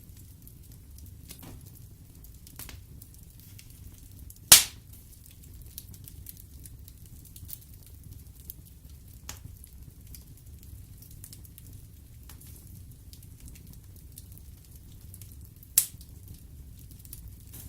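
Wood fire burning in a fireplace: a low steady rumble of the flames with frequent small crackles, and two loud sharp pops, one about four and a half seconds in and another near the end.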